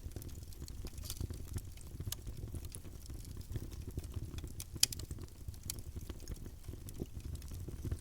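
Campfire burning with a steady low rumble of flames and irregular crackles and pops of burning wood, one sharper pop about halfway through.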